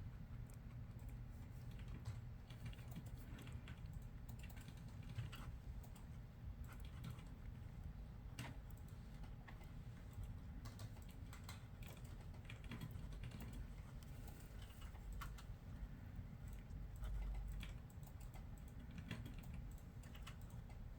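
Typing on a computer keyboard: irregular runs of light keystrokes with short pauses, over a steady low hum of office room tone.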